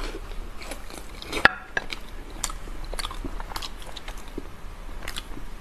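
Close-miked eating: biting and chewing a soft, sauce-coated sheep brain wrapped in intestine, with scattered short wet clicks. The loudest click comes about one and a half seconds in.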